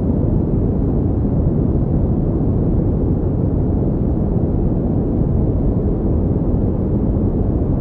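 Steady generated pink noise: an even, unbroken hiss that weighs heavily toward the low end, like a deep rumble.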